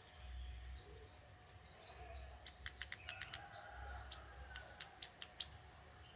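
A young male ciblek tebu, a small prinia, calling faintly: short high chirps, then about halfway through a quick run of sharp ticking notes.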